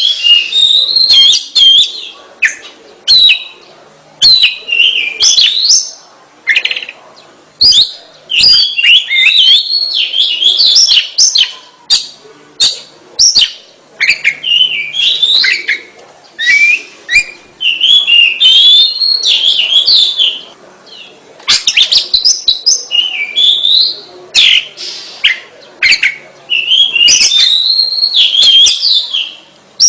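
Oriental magpie-robin in full song: loud, varied phrases of quick whistled notes, slurred glides and sharp clicks, in bouts of a second or two with short pauses between.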